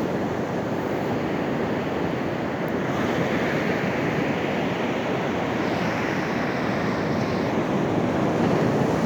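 Ocean surf breaking and washing on a sand beach: a steady rush of noise without pause, with some wind.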